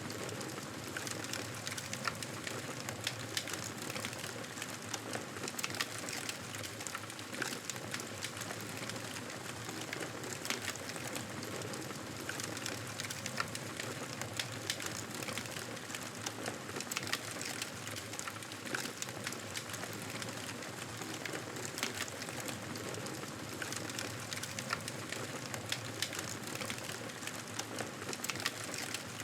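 Wood fire crackling in a fireplace: a steady hiss with frequent short, sharp pops.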